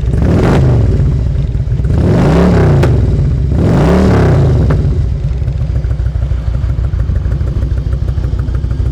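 2001 Harley-Davidson Ultra Classic's Twin Cam 88 V-twin engine through Vance & Hines slip-on mufflers, revved three times in the first five seconds, each rev rising and falling, then idling steadily. The engine runs without any knocking, rattling or tapping.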